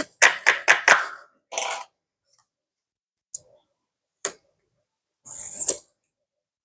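Desk handling sounds: a quick run of sharp clicks and taps, one with a brief metallic ring, then two single ticks and a short rustle near the end, as cash and envelopes are handled.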